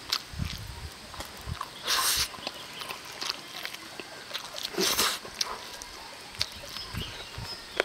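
A person chewing and smacking on braised chicken eaten by hand, with many small wet clicks and soft thuds. Two short loud hissing rushes come about two seconds and five seconds in.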